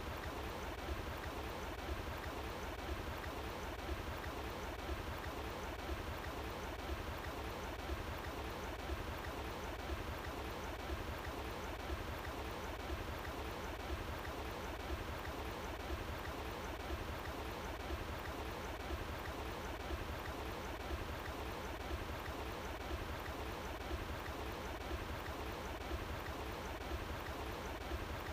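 Outdoor stream water flowing steadily: a constant rushing with a deep rumble underneath.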